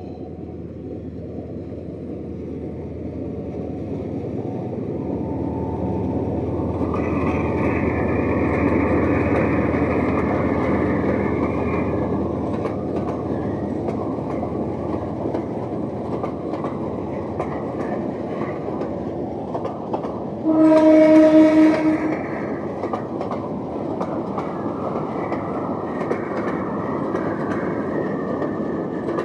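Train running on the rails, its rumble growing louder over the first ten seconds and then holding steady. About two-thirds of the way through, the locomotive horn sounds one loud blast of about a second and a half.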